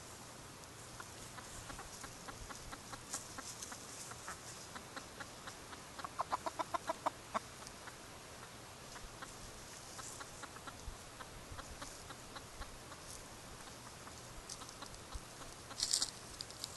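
Chickens clucking in strings of short clucks, with a louder quick run of about eight clucks some six seconds in.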